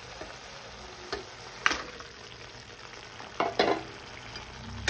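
Green mint masala paste sizzling and bubbling in a steel kadai, with a few sharp knocks and splats as raw chicken pieces go into the pan and the spoon strikes the steel; the loudest knock comes about a second and a half in.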